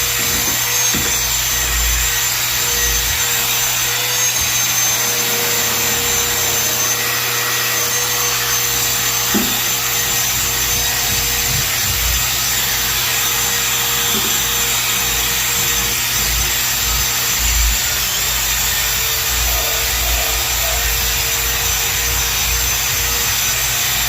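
A loud electric machine running steadily, with a constant whine over a broad rushing noise, of the kind made by a vacuum or a floor sander working a hardwood floor.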